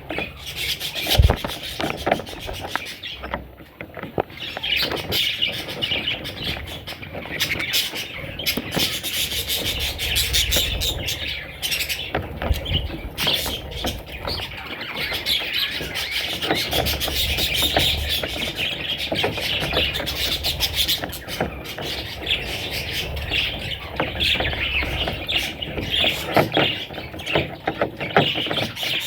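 Budgerigar chicks chirping and squeaking in a continuous chatter, mixed with many small clicks.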